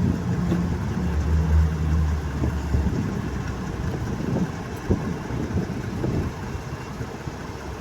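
2022 Jeep Grand Cherokee idling with the air conditioning running during a refrigerant recharge: a low, steady running noise with a brief hum about a second in.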